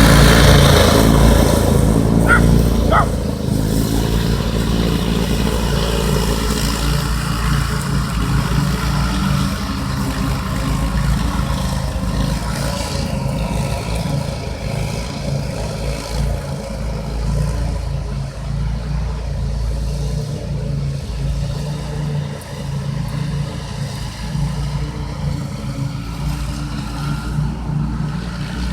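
Dune buggy engine running steadily while towing a field mower. It is loudest in the first few seconds, then settles a little quieter.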